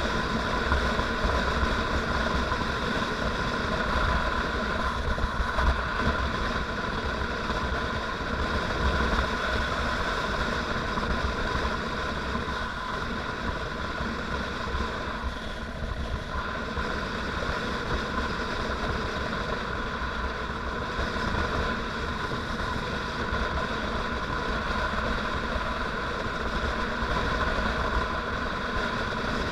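Motorcycle engine running steadily while riding, with a continuous low rumble underneath.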